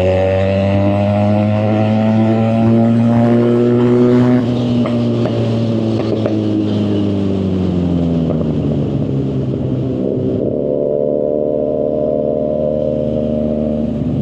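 Motorcycle engine running on the move, its pitch climbing over the first four seconds, then dropping and settling steady for the last few seconds.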